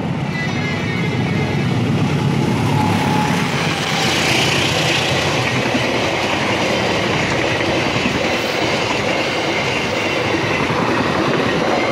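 A diesel-hauled KAI economy passenger train passing close by at speed. The locomotive's low engine hum fades within the first few seconds into the steady rumble and clatter of the coaches' wheels on the rails. A thin high squeal sounds throughout.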